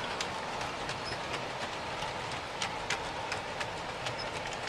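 Long large-scale model freight train rolling on track: a steady rolling rumble of many metal-wheeled cars, with irregular sharp clicks as wheels pass over rail joints.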